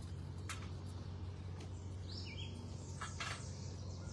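Wild birds chirping in the background over a steady low hum, with a few short high calls about halfway through and a couple of brief sharp clicks.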